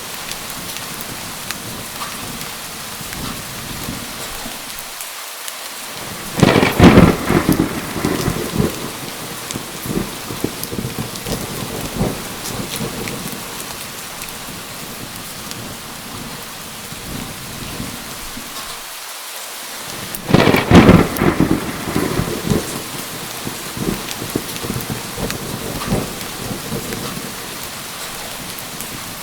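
Steady heavy rain with two loud claps of thunder, one about six seconds in and the other about twenty seconds in, each rumbling away over a couple of seconds.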